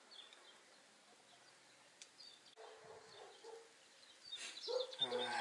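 Quiet outdoor background with faint, scattered bird chirps. Near the end come a few soft handling noises and a brief low voice sound.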